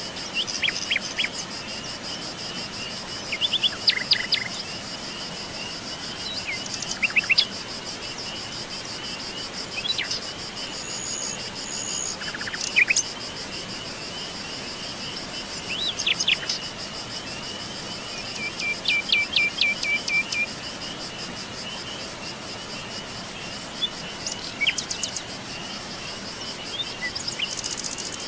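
Forest birds chirping and calling in short bursts every few seconds, including a quick run of repeated notes a little past the middle, over a steady high-pitched insect trill.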